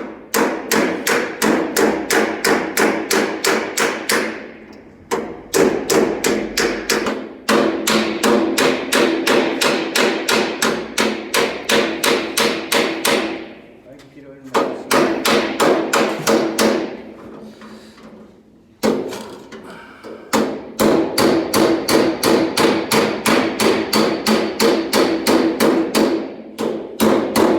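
Rapid runs of hammer blows on the steel sheet of a car door panel, several strikes a second with a metallic ring, broken by short pauses. The dent is being hammered out and planished smooth.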